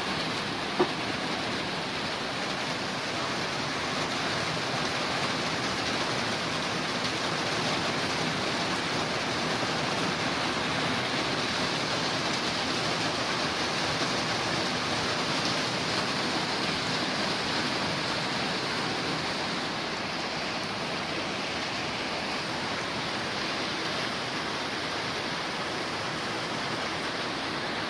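Rain falling steadily, an even dense hiss, with one short sharp click about a second in.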